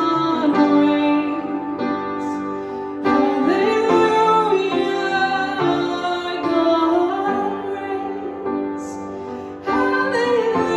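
A woman singing a slow song, holding and gliding between long notes, over instrumental accompaniment that is likely guitar.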